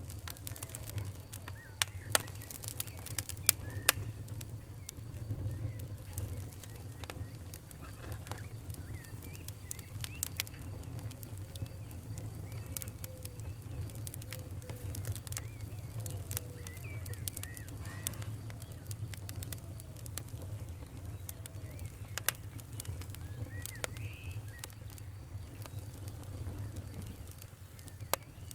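Wood fire in a fireplace crackling, with irregular sharp pops over a steady low rumble of the flames and faint wavering squeaks.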